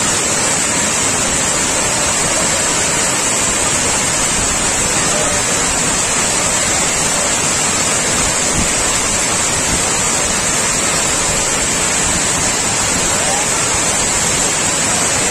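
Water overflowing a dam and pouring down as a loud, steady rush.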